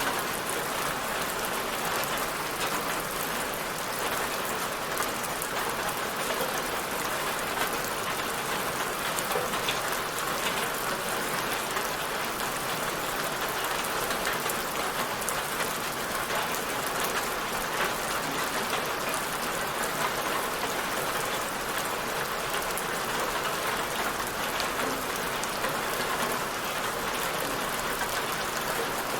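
Steady rainfall: an even hiss of rain on a surface with fine, dense drop patter.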